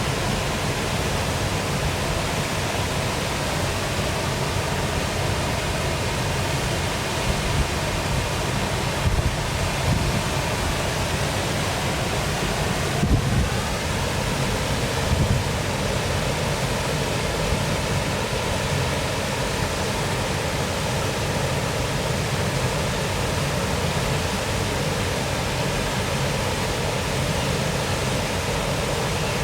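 Waterfall rushing steadily, a continuous splashing with a heavy low rumble, and a few brief louder swells around the middle.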